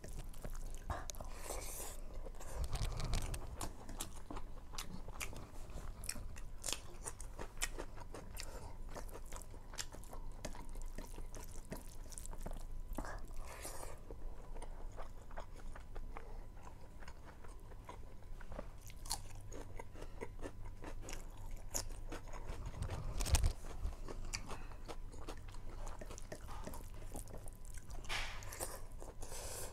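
A person chewing and crunching a mouthful of rice, meat and raw cucumber eaten by hand, with many small wet mouth clicks. There is a dull bump about 23 seconds in.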